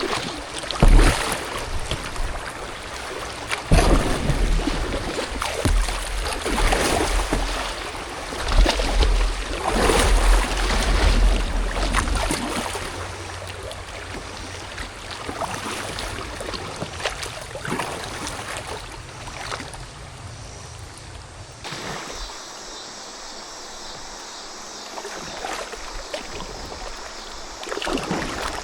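Kayak paddle strokes splashing in the water every couple of seconds, with wind rumbling on the microphone during the first half.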